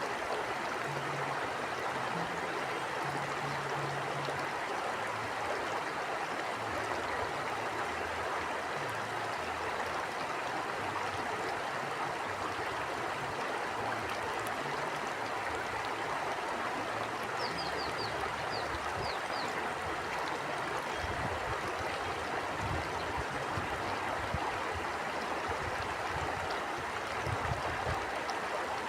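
Flowing stream rushing steadily, with a brief run of quick high notes a little past the middle.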